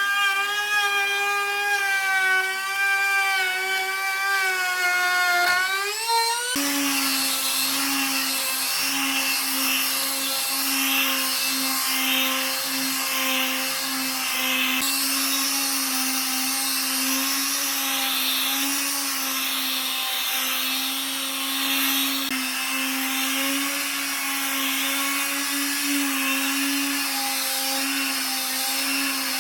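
Handheld electric power tool working wood. For the first six seconds its motor whine wavers in pitch as the load changes. It then shifts abruptly to a steady lower hum with a rough grinding hiss over it.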